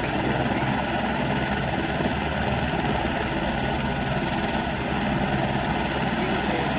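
Helicopter running steadily, a continuous dense engine and rotor noise with a fast low chop.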